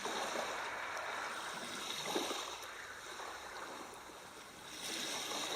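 Ocean waves washing in and out: a hiss of surf that swells, ebbs around the middle and rises again near the end.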